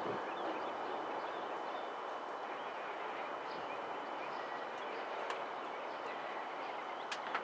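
Steady outdoor background noise with faint bird chirps, and two sharp clicks, one about five seconds in and one near the end.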